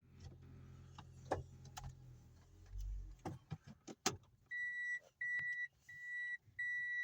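Car warning chime beeping steadily, about once every 0.7 seconds, starting about halfway in. Before it, a low hum stops with a thud about three seconds in, with a few sharp clicks around it.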